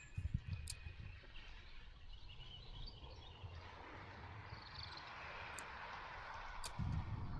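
Outdoor noise with a few brief, faint bird chirps and some low thumps near the start. A steady hiss builds through the second half, and a low rumble rises near the end.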